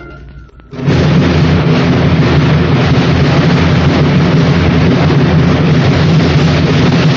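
Music fades out, and about a second in a loud, steady rumble begins, a low hum under a hiss, with no changes.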